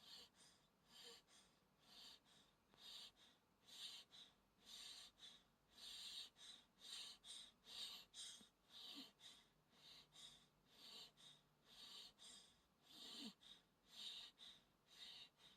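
A one-month-old newborn breathing in its sleep: faint, quick, even breaths, about two a second. Twice, a brief small squeak.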